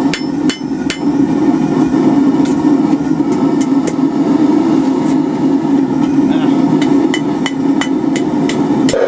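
Hand hammer striking hot steel on an anvil, scattered blows at an uneven pace while the hook and scroll are straightened, over a steady low hum.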